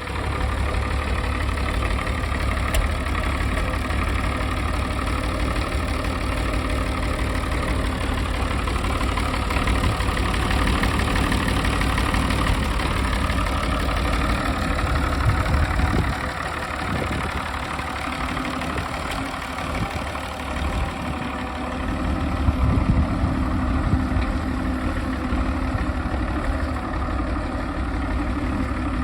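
International 560 Wheatland tractor's six-cylinder diesel engine idling steadily. Its deepest rumble fades about halfway through and comes back a few seconds later.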